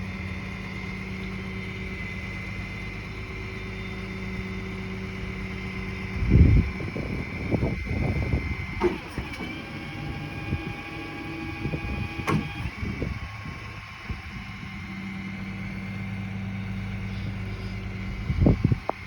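A vehicle engine idling steadily, with a series of metal clanks and knocks from a tow chain being hooked up, the loudest about six seconds in and again near the end.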